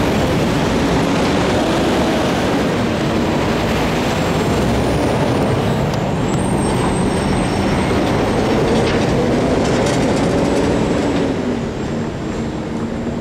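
Freight cars rolling along the rails, a steady rumble of wheels on track with a wavering tone in it. The sound drops somewhat near the end as the last cars move away.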